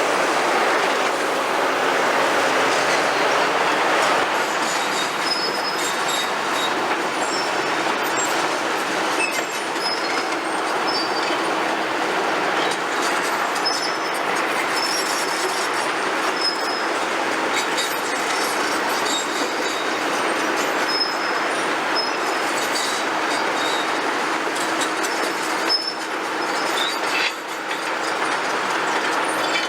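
Hydraulic excavators working on a demolition site: a steady, loud mechanical din with a low engine hum and many short, high metallic squeals throughout.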